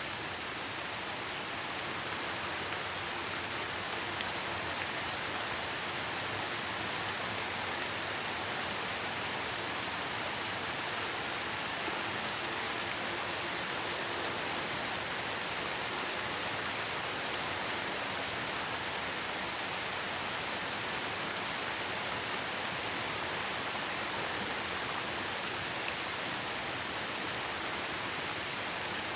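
Steady rain falling, an even hiss of drops on surfaces that does not let up or change.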